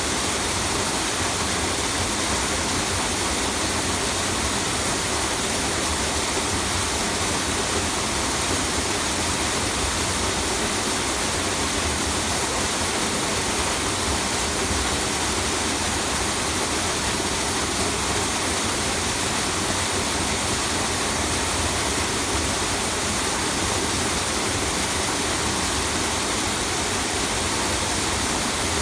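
Steady rush of a small tiered mountain waterfall, water falling and splashing continuously without a break.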